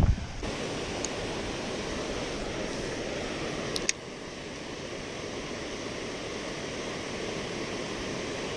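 Steady hiss of heavy rain falling on river water, with a brief click about four seconds in.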